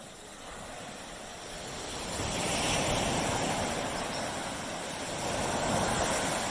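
Gentle ocean waves washing onto a beach, the surf swelling twice, about two seconds in and again near the end.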